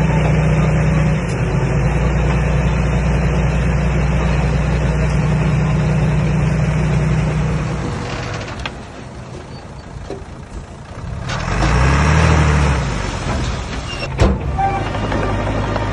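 Komatsu D21A bulldozer's diesel engine running steadily under work, then dropping away briefly before revving up and back down. A single sharp clank follows about 14 s in, and the engine then settles at a lower, steady speed.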